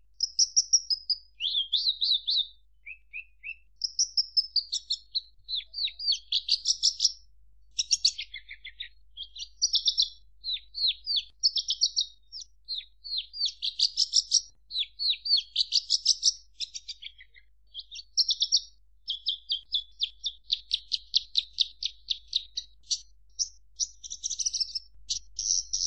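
Javan bush lark (branjangan) singing a long, varied song of rapid high chirps, trills and buzzy notes, with a long run of quickly repeated notes in the second half.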